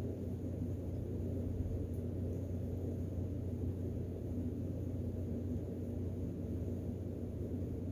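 Steady low hum and rumble of room background noise, unchanging throughout.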